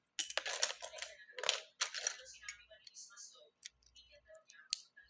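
Plastic Lego bricks clattering and clicking, a busy rattle in the first two seconds followed by scattered single clicks.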